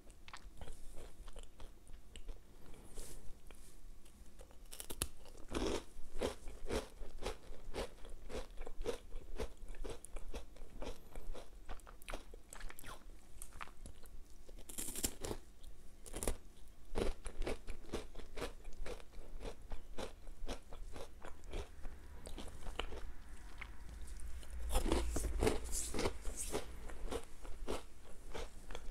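Close-miked eating of a crunchy Kinder Bueno wafer bar: constant small crunches and mouth sounds of chewing, with louder crunching bites about five seconds in, about fifteen seconds in, and near the end.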